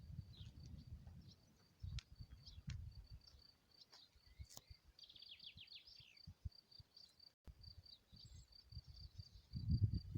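Crickets chirping steadily in a fast, pulsing high trill. About five seconds in, a bird gives a short descending trill, and a few low rumbles come near the start and near the end.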